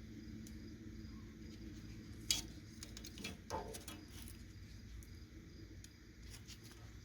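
Faint clicks, ticks and a light scrape from tools and metal being handled, over a low steady hum.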